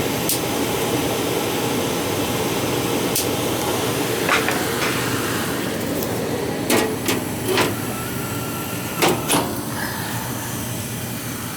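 Gas furnace running just after ignition: a steady rush of burner and blower, with a string of sharp clicks and knocks through the middle.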